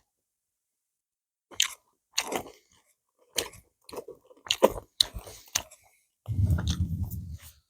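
A person chewing grilled mackerel close to the microphone: a run of short, wet, clicky chewing and smacking sounds, then a low hummed "mm" near the end.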